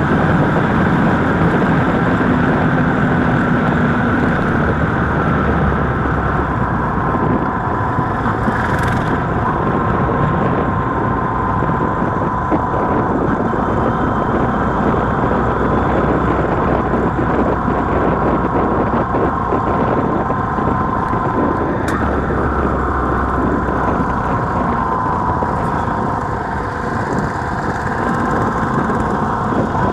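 Motorcycle running steadily while being ridden, its engine mixed with road and traffic noise.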